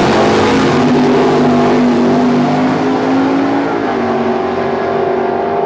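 Holden VL Calais drag car's V8 engine running loud, its pitch climbing slowly and then dropping about four seconds in.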